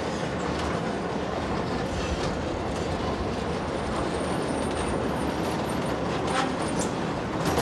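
Passenger train running across a riveted steel truss bridge, heard from an open carriage window: a steady rumble of wheels on the rails with a few sharp clacks and a faint high squeal about five seconds in.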